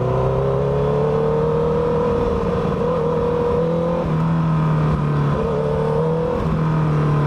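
Honda CBR1000RR's inline-four engine running under way. Its pitch climbs a little over the first couple of seconds, then holds steady with a few brief dips.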